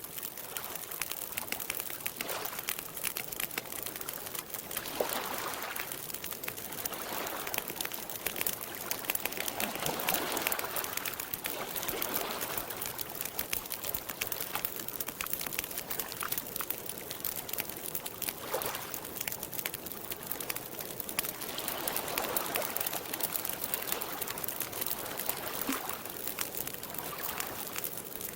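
Campfire crackling in a steady run of small pops, over lake water lapping in swells that rise and fade every few seconds.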